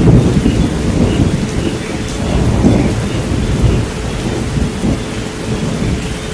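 Thunderstorm: steady heavy rain with low rolling thunder, loudest at the start. Under it runs a steady pure tone of about 432 Hz.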